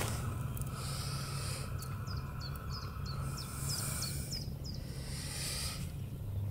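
A small songbird chirping a quick series of short, high, falling notes, about three a second, over a steady low rumble and patches of soft hiss.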